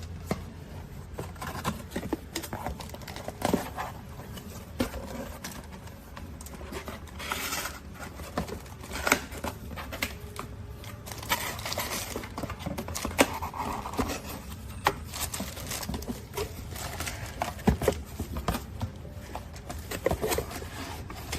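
Handling noises: irregular rustling, scraping and sharp clicks and taps, as of packaging and parts being handled, over a steady low hum.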